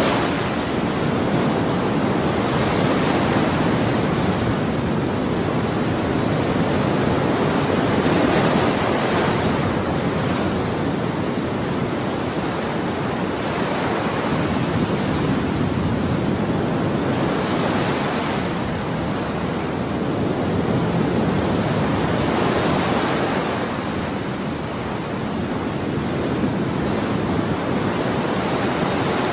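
Ocean waves breaking on a shore, a continuous wash of surf that swells and ebbs every few seconds as each wave comes in.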